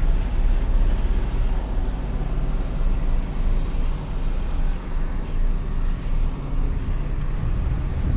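Truck's diesel engine running steadily, heard from inside the cab as a low, even hum.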